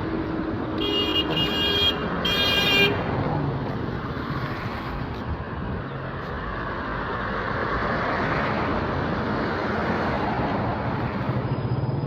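Street traffic noise with a vehicle horn tooting twice in quick succession about a second in, then a vehicle passing close by, its noise swelling and fading around eight seconds in.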